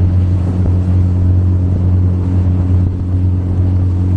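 Motorboat running flat out at about 16 knots, a steady loud engine drone with wind and water rush over it.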